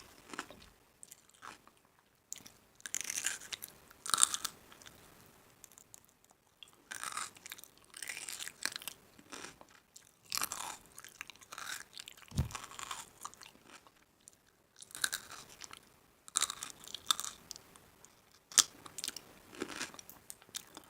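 A person chewing crunchy food close to the microphone, in repeated crackly bouts of crunching with short pauses between them, and a brief low thud about halfway through.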